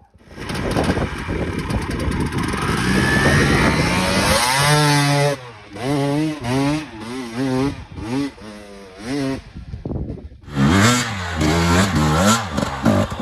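KTM 250 enduro motorcycle engine under hard throttle, then revved up and down over and over in quick blips. It drops away briefly about ten seconds in, then revs again.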